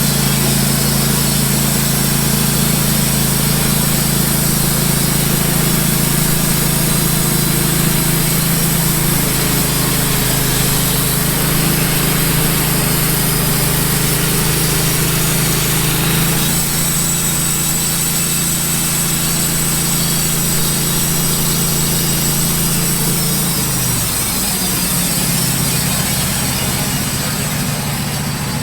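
Wood-Mizer LT15 band sawmill running steadily, its blade sawing through a maple log. About 17 seconds in the sound changes and a thin high whine joins it. About 24 seconds in the engine drops to a lower pitch.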